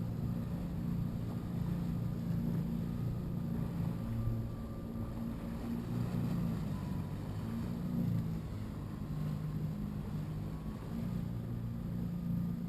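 Watercraft engine running steadily, its level rising and falling slightly.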